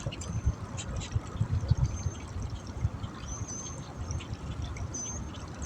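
Water trickling and lapping at the water's edge, with irregular low thumps on the microphone and a few short high chirps.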